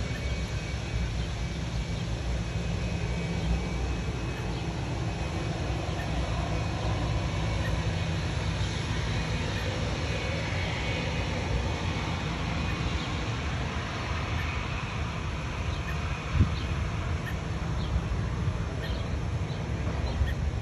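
Steady low outdoor rumble with faint, short high-pitched chirps every second or two: baby birds cheeping.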